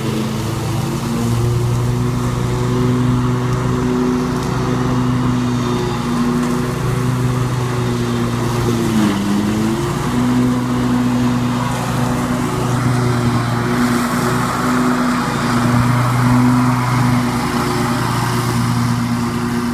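Scag Tiger Cat II zero-turn mower running at full throttle while mulching leaves, a steady engine drone over the hiss of the blades. About halfway through, the engine's pitch sags briefly under load and then comes back up.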